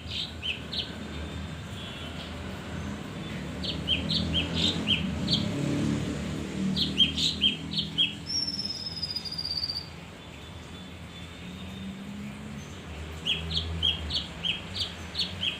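Male kinoi bird singing: bursts of five to eight short, sharp chirps in quick succession, with one long falling whistle near the middle.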